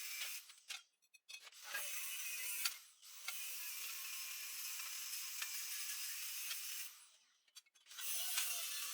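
Scraping or rubbing on a hard surface in long continuous runs, stopping briefly about a second in, about three seconds in, and for about a second near the end.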